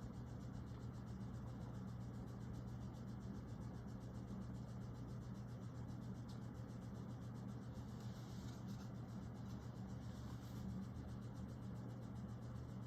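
Quiet room tone with a steady low electrical hum. Two faint, brief rubbing sounds come about eight seconds in and again near ten and a half seconds.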